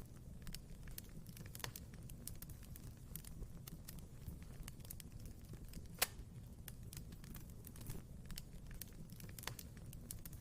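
Wood fire in a fireplace crackling with many small irregular pops over a steady low rumble, with one loud sharp pop about six seconds in.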